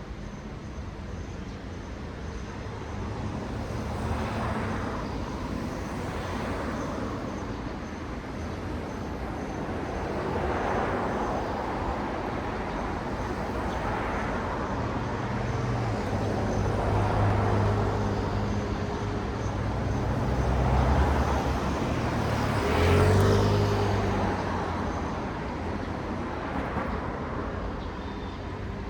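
City road traffic: cars passing one after another, each swelling up and fading as its tyres and engine go by, with the loudest pass about 23 seconds in and a heavier vehicle's engine hum through the second half.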